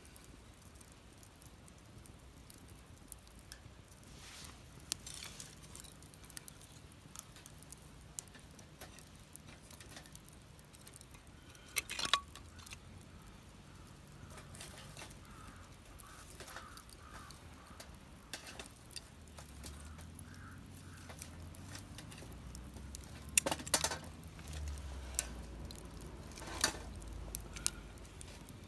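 Wood fire crackling, with scattered small snaps and a few louder pops, about twelve seconds in and twice near the end, over a faint low rumble.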